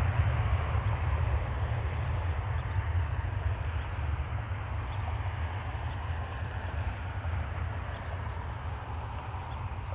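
Jet airliner engine noise slowly fading as the aircraft moves away, under heavy gusty wind rumbling on the microphone.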